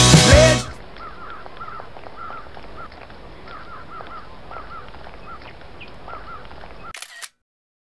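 Rock music stops in the first second, then a bird calls over outdoor ambience, repeating short chirps, often two or three together. A short burst of noise comes near the end before the sound cuts off.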